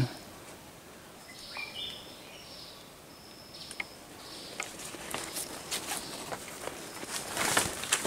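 A bird calling in the first half: short, high, steady notes and one falling whistle. From about halfway on, leaves and twigs rustle and snap as someone pushes through undergrowth; the loudest rustle comes near the end.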